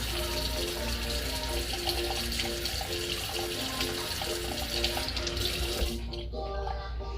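Water running steadily from a tap, cutting off about six seconds in, with background music playing a simple stepped melody underneath.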